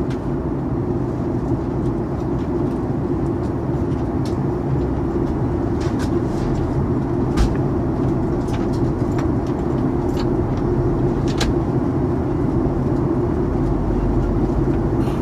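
Steady cabin drone of a Boeing 737-900ER airliner in flight on approach, the engine and airflow noise heard from inside the cabin. A few faint clicks are heard, and a low rumble grows stronger near the end.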